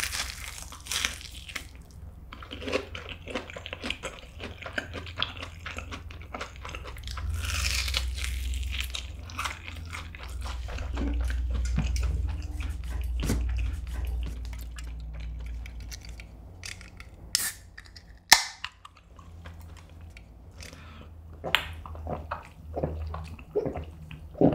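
Close-miked chewing and crunching of a crumb-coated cheese pork cutlet, full of small wet clicks and crackles. About three-quarters through come a couple of sharp clicks and a pop as a drink can's pull tab is opened. A gulp follows near the end.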